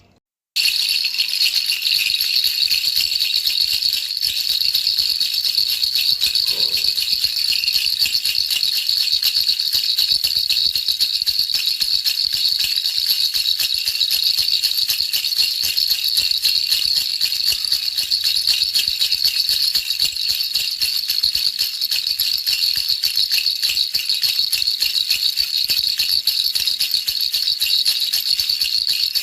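Baby rattle shaken continuously in a fast, dense, high-pitched rattle that keeps steady throughout, starting about half a second in after a brief silence.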